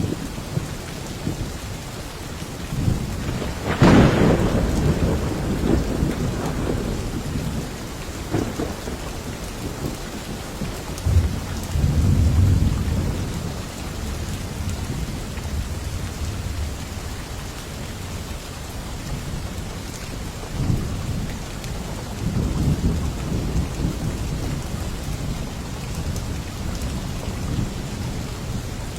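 Steady heavy rain with thunder. A sharp thunderclap comes about four seconds in, and lower rolling rumbles follow several times later on.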